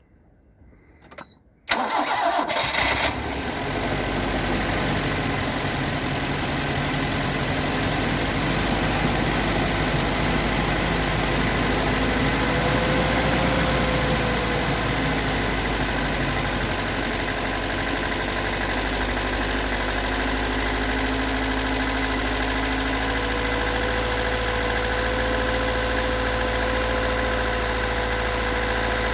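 Toyota AE86's stock 4A-GE 1.6-litre twin-cam four-cylinder cold start: cranking for about a second and a half, catching about two seconds in, then settling into a steady idle. The owner reports a rough idle and a knocking sound whose cause he has not found.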